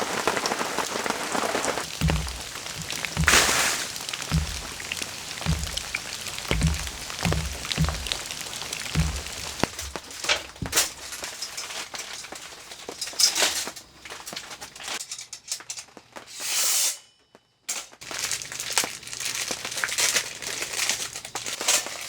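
Rain falling steadily, mixed with close handling noises: a run of low, evenly spaced thumps, then scattered sharp clicks and rustles.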